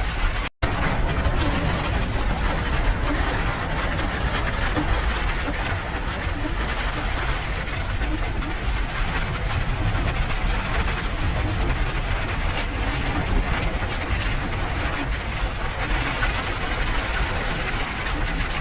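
Steady rain noise with a strong low rumble underneath, cut off for a split second about half a second in.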